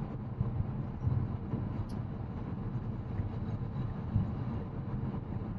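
Steady low road and tyre rumble inside the cabin of a moving Tesla Model X Plaid.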